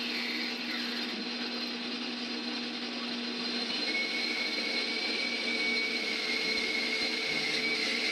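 Drill running steadily, boring out the old hinge-shaft hole in a saxophone key's brass hinge tube. A low hum drops out about halfway through, and a high whine comes in soon after.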